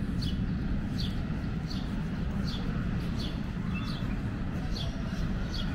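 A bird repeating a short, high, slightly falling chirp about every three-quarters of a second, over a steady low rumble.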